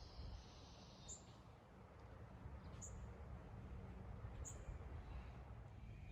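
Faint outdoor ambience: a small bird gives three short, high chirps about a second and a half apart over a low, steady rumble.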